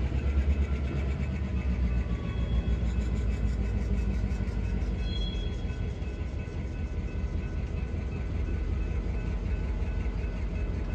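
Approaching train's diesel locomotive, a steady low rumble.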